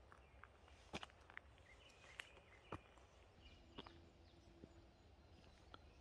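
Near silence, with a few faint, sharp clicks and brief high chirps.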